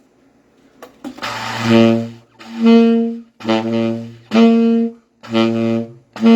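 Saxophone alternating a low C with its first harmonic, the C an octave above, sounded by embouchure change alone on the same fingering. Each note is held just under a second, low and high in turn, three times.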